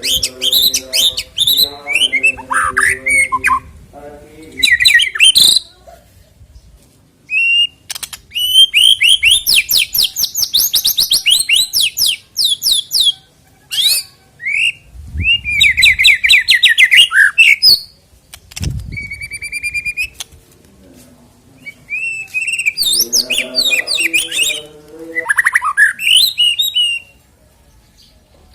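White-rumped shama (murai batu) singing a loud, varied song of rapid trills and whistled phrases, broken by short pauses, with harsh chattering notes near the start and again a little before the end.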